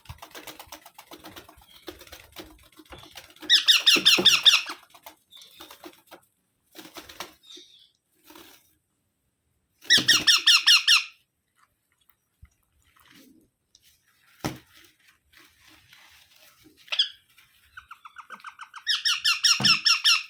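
Rose-ringed (Indian ringneck) parakeet screeching in short bursts of rapid, high-pitched repeated notes, three loud bursts about six seconds apart with a softer call between them.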